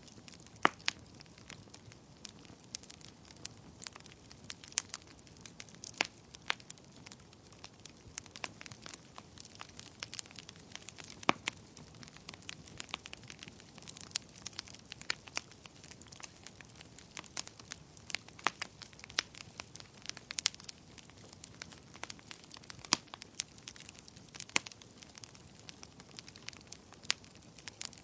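Wood fire crackling: frequent sharp, irregular pops and snaps over a low steady hiss of burning.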